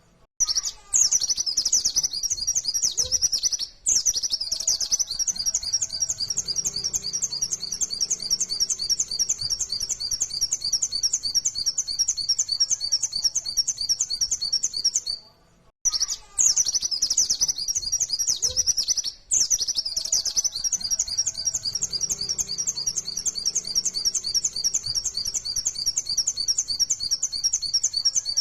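White-eye (pleci, Zosterops) singing a fast, continuous, high-pitched twittering song with only brief pauses; the same passage repeats about every sixteen seconds, as a looped lure recording.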